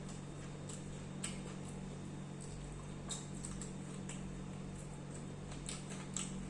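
Close-up eating sounds: scattered soft clicks and smacks from chewing and handling food, over a steady low hum.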